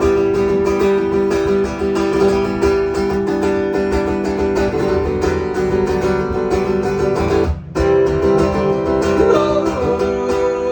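Acoustic guitar strummed in steady chords, the instrumental intro of an acoustic song, with a brief break in the strumming about seven and a half seconds in.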